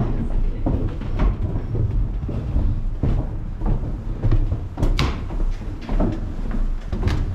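Irregular knocks and clicks, roughly one or two a second, over a steady low rumble.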